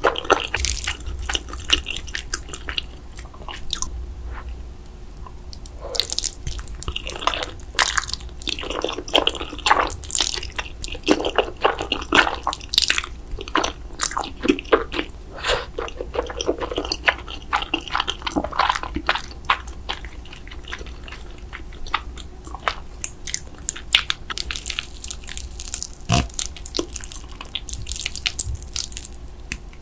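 Close-miked eating of cheesy food: wet chewing and biting, with many small sticky mouth clicks and smacks coming irregularly throughout.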